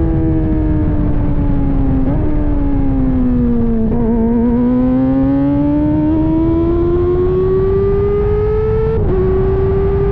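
Kawasaki ZX-25R inline-four 250 cc engine through a titanium Arrow exhaust, under way with a heavy low rumble of wind and road noise. The engine note falls as the bike slows, with a shift about two seconds in. It then climbs steadily under acceleration, drops sharply at a gear change about nine seconds in, and holds steady to the end.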